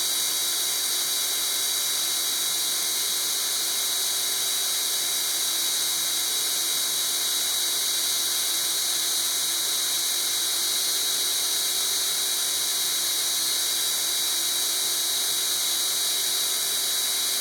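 Electric drill with a diamond-tipped bit grinding steadily through a china plate under light, even pressure, a steady high-pitched whine.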